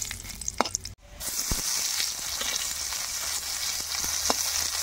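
Bay leaves and nigella seeds sizzling in hot oil in a metal kadai, with a metal spatula clicking and scraping on the pan. The sound cuts out briefly about a second in, then comes back as a louder, steady sizzle of sliced onions and garlic frying while being stirred.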